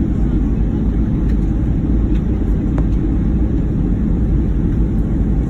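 Steady low rumble of an airliner cabin in flight: engine and airflow noise heard from inside the passenger cabin.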